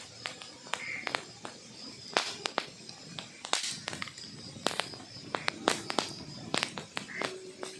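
Burning wood logs crackling, with irregular sharp pops and snaps, several a second, over a soft steady hiss.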